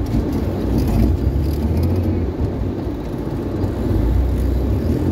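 Car engine running with a steady low rumble, heard from inside the car's cabin.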